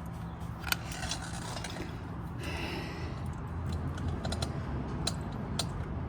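Scattered light clicks and a short scrape of hand-worked parts and tools as carburetors are pushed into rubber intake boots, with the sharpest click a little under a second in. A steady low hum runs underneath.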